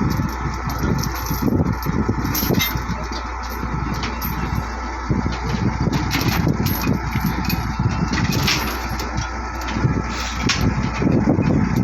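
Caterpillar 966E wheel loader's diesel engine running steadily with a constant low hum.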